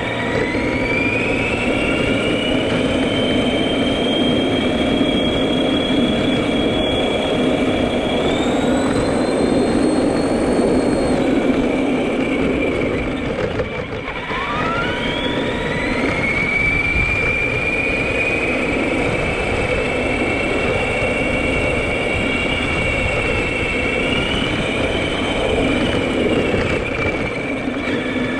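Arrma Granite 4x4 RC monster truck's electric motor whining as it accelerates: the pitch climbs quickly and holds high, drops off about 14 seconds in, then climbs and holds again. Underneath is a steady rumbling noise from the running truck.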